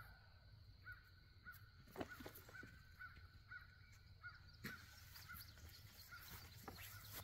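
Faint bird call, a short chirp at one pitch repeated about twice a second, with a couple of soft knocks, the loudest about two seconds in.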